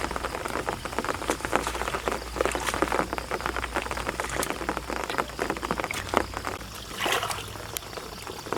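Rain falling, a dense crackling patter of drops, with a brief louder rush of splashing water about seven seconds in.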